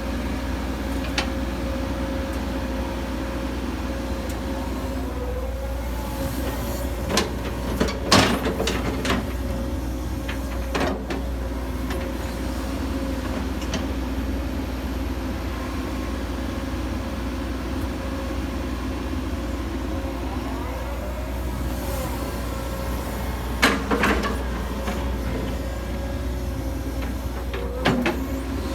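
Hitachi 135US excavator running steadily, its engine drone carrying a thin steady whine. Several sharp metallic clanks break through: a cluster about eight seconds in, one near eleven seconds, and two more near the end.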